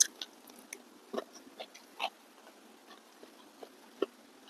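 Eating sounds of a person taking rice by hand: a scattered string of short, wet smacks and clicks of chewing and lip-smacking, the sharpest as a mouthful goes in at the start.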